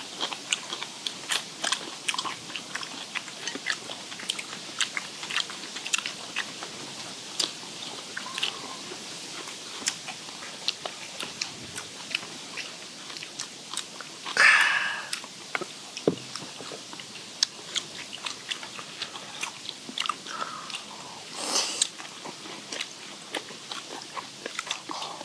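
Several people chewing and biting into steamed skate, its soft cartilage crunching, with frequent small clicks of metal chopsticks against steel bowls. Two louder bursts of noise come about halfway through and near the end.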